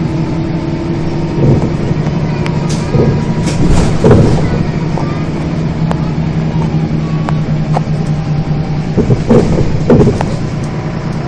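Scania single-decker or double-decker bus engine running steadily under way, heard from inside the passenger cabin, with body knocks and rattles a few times, loudest around four seconds in and again near the ten-second mark.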